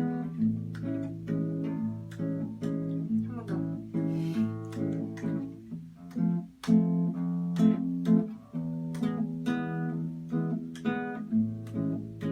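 Acoustic guitar playing chords, strummed and picked, as an instrumental passage with no singing, with a brief break about six and a half seconds in.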